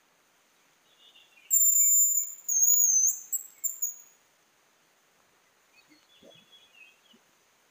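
Hazel grouse whistling its song: a very high, thin, long whistle about a second and a half in, followed by a few shorter broken notes. Fainter, lower chirps come just before it and again near the end.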